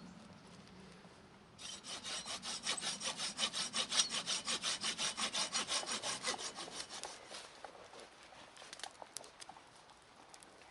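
Hand saw cutting through wood in quick, even back-and-forth strokes, about six a second, for about six seconds, followed by a few light knocks.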